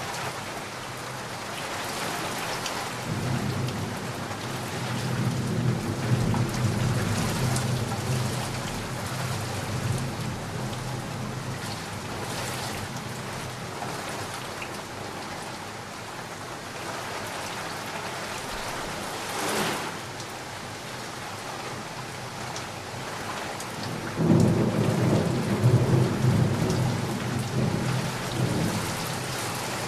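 Steady rain of a thunderstorm with two long rolls of thunder. One rumble builds a few seconds in and fades. A sharp crack comes a little past the middle, and another rumble breaks in suddenly near the end.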